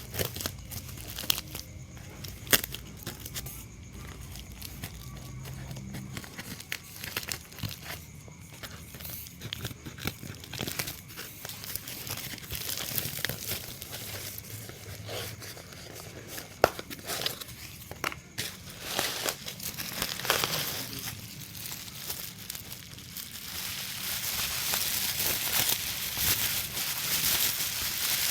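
Packaging being handled during an unboxing: crinkling and rustling with scattered sharp clicks and taps. The rustling grows louder and denser near the end.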